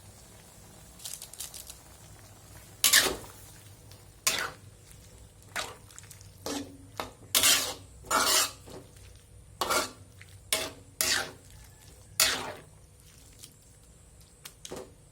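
A utensil clanking and scraping against a cooking pan during stirring: about a dozen separate metallic strikes at irregular intervals, each with a short ring.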